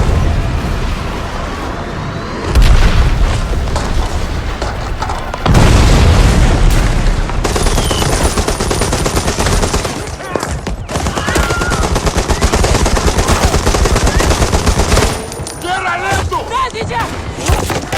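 Battle sound of WWI trench warfare: heavy explosions about two and a half and five and a half seconds in, then sustained rapid machine-gun and rifle fire until about fifteen seconds in, with shouting voices near the end.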